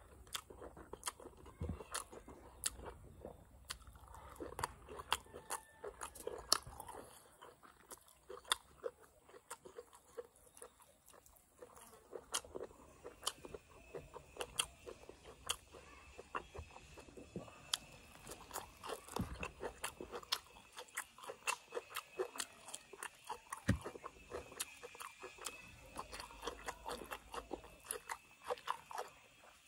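Close-miked chewing and wet mouth smacking of a person eating curried mutton, rice and leafy greens by hand, a steady stream of short clicks and smacks.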